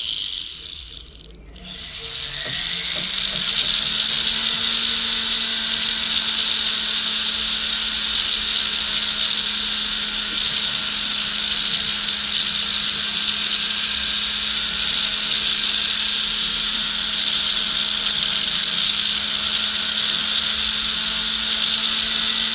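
Small motorized jeweler's rotary tool that briefly slows almost to a stop, spins back up within about two seconds, then runs at a steady speed with a hiss over its hum while working the gold ring.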